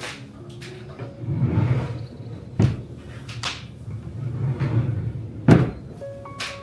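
Household tidying sounds: three sharp knocks, one near the start, one about two and a half seconds in and one near the end, with soft swishing and rustling between them, over gentle background music.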